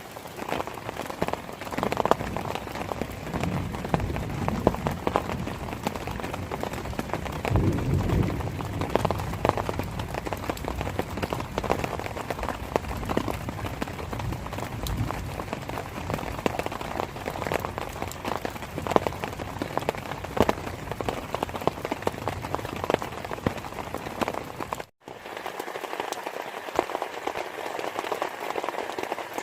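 Heavy rain falling on a surface, with many individual drops heard hitting. About 25 seconds in it cuts out for a moment, then comes back with less low rumble.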